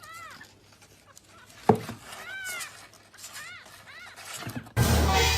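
A kitten mewing: about four short, high-pitched mews that rise and fall in pitch, spaced a second or so apart. A sharp click cuts in between them, and a sudden loud burst of noise comes near the end.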